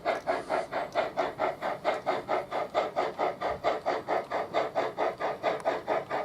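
Sound decoder in a Trix model Big Boy steam locomotive playing steady exhaust chuffs through the model's small speaker, about four to five chuffs a second.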